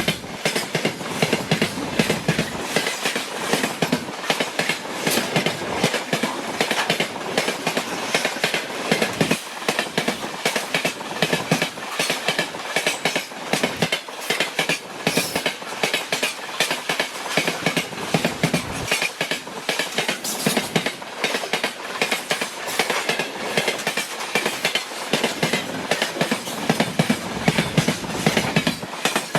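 Freight train wagons rolling past at speed, their wheels clattering steadily over the rail joints in a continuous run of knocks.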